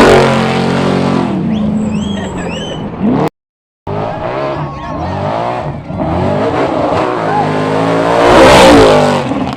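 Baja Trophy Trucks racing past at high revs: one goes by at its loudest at the start and fades away, then after a sudden cut to silence about three seconds in, a second truck approaches, is loudest near the end and falls in pitch as it passes.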